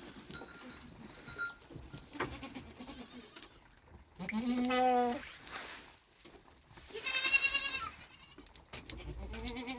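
Goats bleating: a low call about four seconds in, a higher wavering call about seven seconds in, and another starting near the end.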